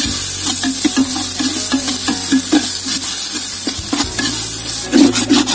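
Onions and green chillies sizzling as they fry in oil in a metal pot, while a steel spatula scrapes and stirs against the pot in quick repeated strokes, about three a second, growing louder near the end.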